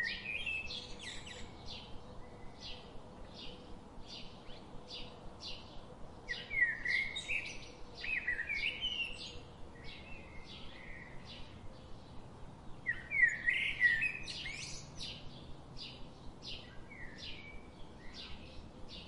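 Small birds chirping: a steady run of short high chirps, about two a second, with louder warbling phrases breaking in at the start, about six to nine seconds in, and again around thirteen to fifteen seconds.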